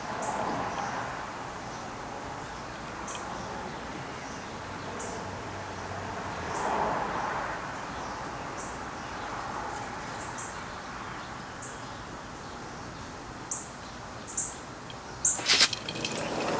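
Small birds chirping: short high chirps repeating every second or so over steady background noise, with a sharp louder snap near the end.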